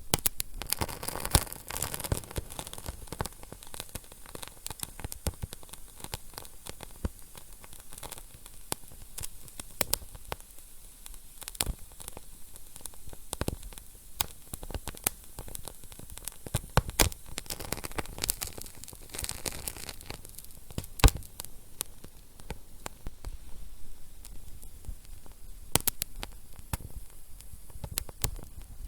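Wood fire crackling in a fireplace: a steady hiss with irregular sharp pops and snaps, a loud pop about 21 seconds in, and brief flare-ups of hissing near the start and around 19 seconds in.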